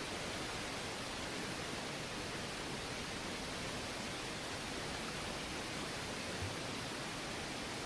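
Steady rushing of a river, an even hiss with no breaks. A single soft low thump about six seconds in.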